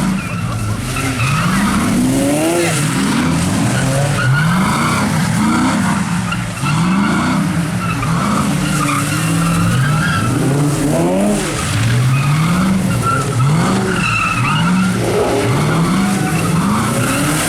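Car engine revving hard and falling back over and over, about once a second, with tyre skidding noise, as a car spins donuts.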